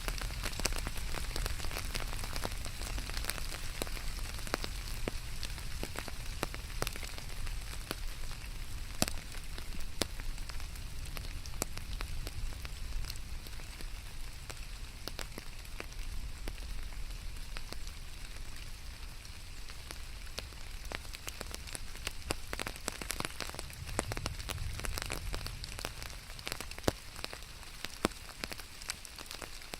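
Steady rain falling, with many single drops ticking sharply over a low rumble.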